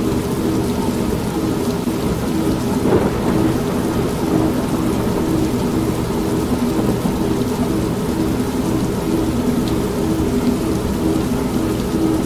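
An old manual washing machine running with a steady, evenly pulsing churn, mixed with continuous rain and low thunder rumble.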